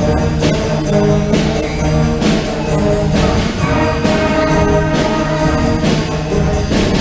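Middle school band playing live, with brass and held chords over regular drum strokes.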